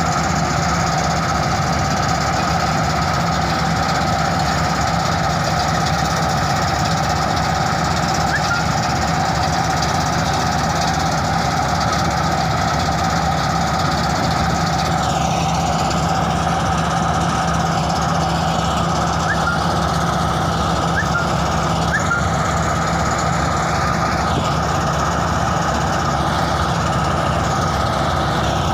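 Tudi (wheat-straw chaff) machine powered by a four-cylinder engine, running steadily with a fast, even rattle.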